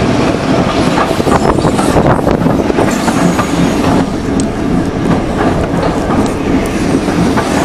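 Passenger coach of a moving train, its wheels clattering over rail joints in a run of sharp clicks over a steady loud rumble and rattle.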